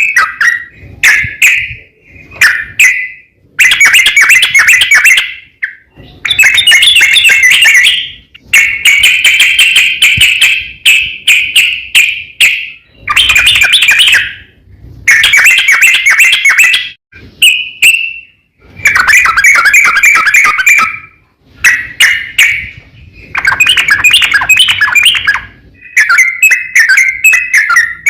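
Yellow-vented bulbul (trucukan) singing loud, bubbling, warbled phrases, about ten bursts of one to four seconds each with short pauses between them. It is the long-trilling challenge song that calls out rival bulbuls.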